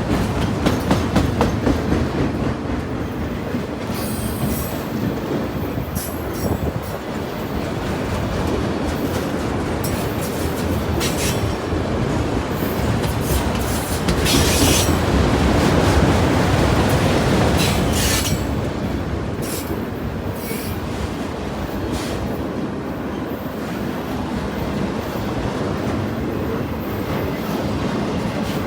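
A train's cars rolling past, with their wheels clacking over the rail joints and a steady rumble. Now and then the wheels squeal briefly and high-pitched.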